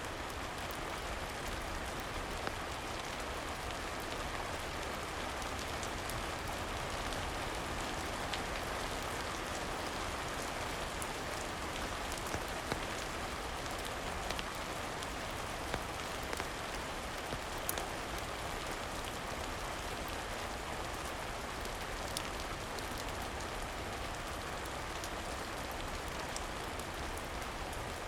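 Steady rain falling, an even hiss with scattered small clicks and ticks.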